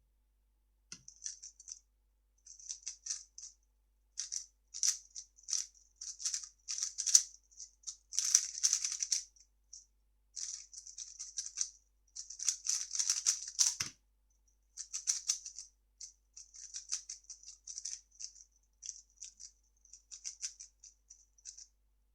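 3x3 speedcube being turned fast, its plastic layers clicking and clacking in quick rattling runs of turns. The turning pauses briefly about two-thirds of the way through, with a soft thump, then starts again.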